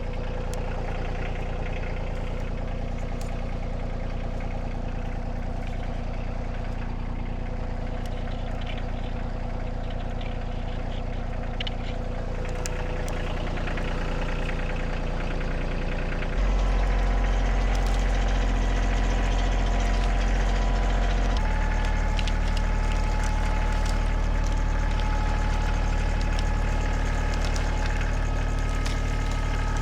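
Engine running steadily, stepping up in speed or load twice, about halfway through and again a few seconds later.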